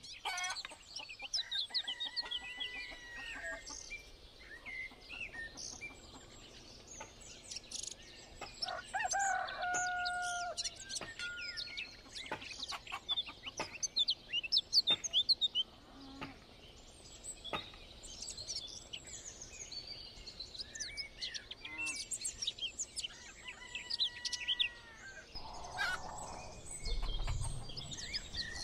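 Small birds chirping repeatedly, with a rooster crowing once about nine seconds in.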